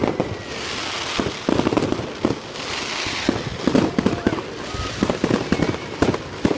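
Consumer fireworks going off: an irregular run of sharp pops and bangs, with two bursts of high hissing crackle, one about half a second in and one near three seconds.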